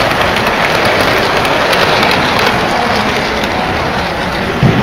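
Model trains running on the layout's track loops: a steady rumble and clatter of wheels on rail, with faint clicking through it.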